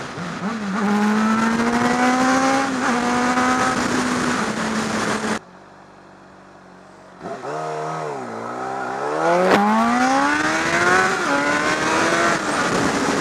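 Motorcycle engine under way with wind noise, its pitch climbing steadily as it accelerates. About five seconds in, the sound drops away sharply for nearly two seconds. It then returns with the revs dipping and climbing again, with a brief drop around eleven seconds like a gear change, before holding steady near the end.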